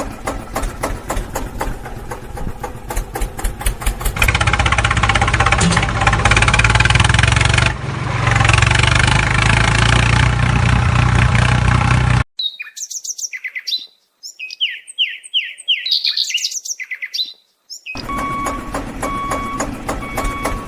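A vehicle engine runs with a fast, even clatter, then gets louder and denser for about eight seconds. It cuts off abruptly to birds chirping over silence for about six seconds. The engine then returns along with a reversing beeper sounding at an even pace.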